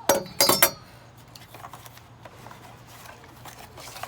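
Metal shower curtain rod clanking as it is handled: two sharp, ringing metallic clatters within the first second.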